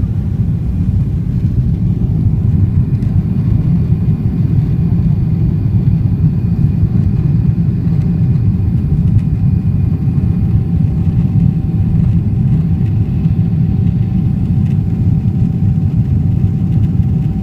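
Cabin noise of a Boeing 777-300ER: a steady, loud low rumble of its GE90 jet engines and airflow, with a faint steady whine above it.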